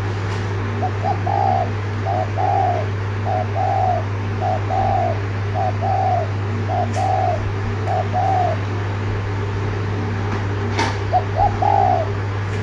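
Spotted dove giving its repeated bowing coo, each a short note followed by a longer one, seven times about a second apart, then a pause and one more near the end. A steady low hum runs underneath, and there is a sharp click shortly before the last coo.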